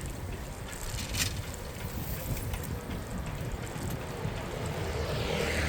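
City street noise heard from a moving bicycle on a cycle path: wind on the microphone over a steady low traffic rumble, with a few light clicks. Near the end a hiss swells and falls in pitch.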